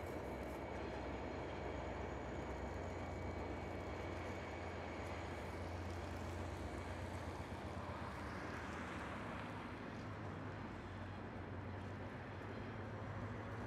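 A railway vehicle running with a steady low engine hum under a noisy rumble, with a swell of higher hiss about eight seconds in.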